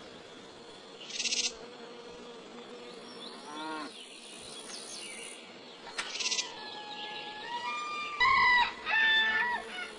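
Recorded farm animal calls, played one after another as short separate calls with brief noisy bursts between them; the loudest calls come near the end.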